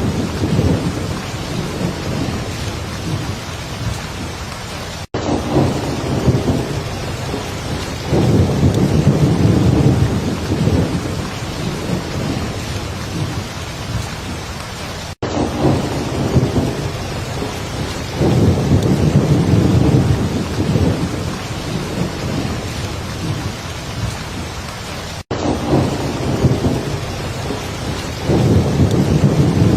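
Heavy rain falling steadily, with low thunder rumbles swelling about every ten seconds. There is a split-second gap in the sound about every ten seconds where the loop repeats.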